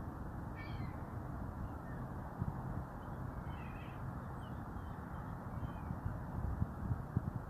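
A few faint, short bird calls, one about half a second in and a cluster a few seconds later, over a steady low rush of background noise with a few low bumps near the end.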